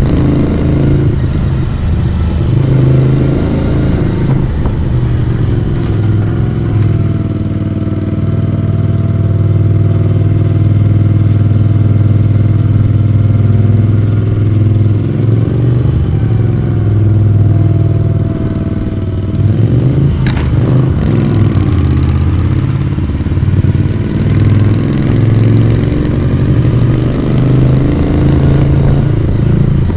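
Moto Guzzi V35's vintage V-twin engine and exhaust under way on the road. The engine holds a steady note for a long stretch, then about two-thirds of the way through there is a short break and the note goes more uneven.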